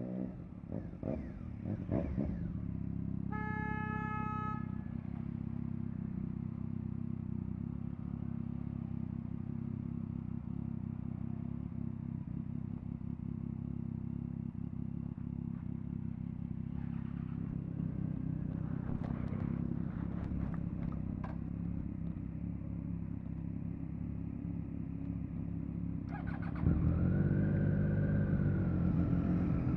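Triumph Street Triple RS inline-three with a Yoshimura exhaust running steadily under way. A horn sounds briefly about three seconds in. Near the end the engine gets louder and rises in pitch as the throttle is opened.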